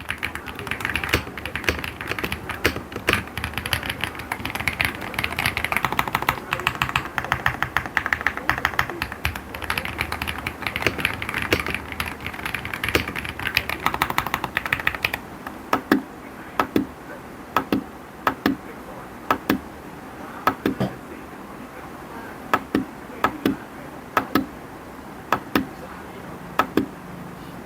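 Keystrokes on an Aula AU75 mechanical keyboard: a fast, dense clatter of typing, which about fifteen seconds in slows to single key presses roughly a second apart, some in quick pairs.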